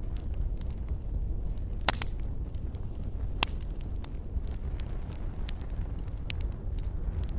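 Fireplace fire crackling, with many small sharp pops and two louder ones about two and three and a half seconds in, over a low steady rumble.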